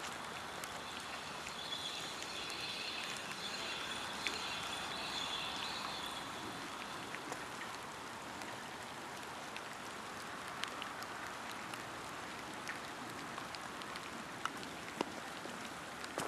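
Light rain hissing steadily, with scattered drips ticking. A faint cluster of high steady tones sounds for a few seconds starting about two seconds in.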